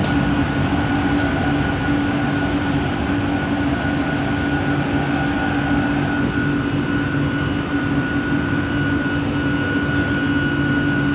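Bombardier Innovia ART 200 metro train running at steady speed, heard from inside the car: a running rumble with a steady two-tone whine from its linear induction motors. The lower tone drops away about a second before the end.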